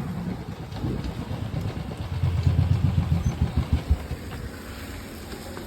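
Motorcycle engine running at low speed, louder about two seconds in and fading away after about four seconds.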